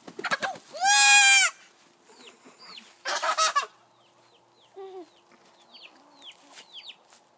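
Chicken squawking in protest while being held: a long, loud, harsh squawk about a second in and a shorter, raspier one around three seconds in, with faint short chirps between.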